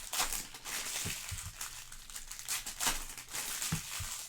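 Crinkling of trading-card pack wrappers being handled, with a few soft knocks on the table.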